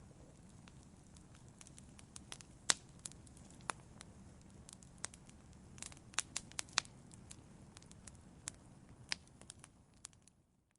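Wood fire crackling: irregular sharp pops and snaps over a low steady hiss of burning, fading out about ten seconds in.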